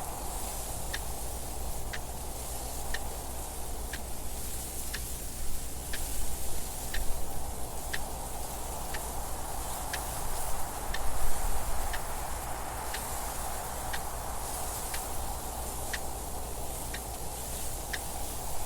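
Clock ticking about once a second over a steady rush of wind noise, with the wind swelling louder twice, around a third of the way in and again past the middle.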